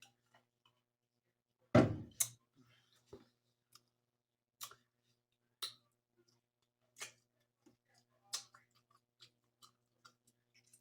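Close-miked eating sounds of seafood boil: wet chewing and mouth smacks in sharp separate clicks about once a second or so, with one louder thud about two seconds in.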